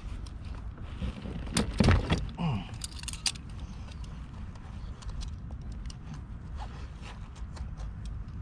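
Clicks and light metallic jingling from fishing gear being handled, with a louder burst of knocks about two seconds in, over a steady low rumble.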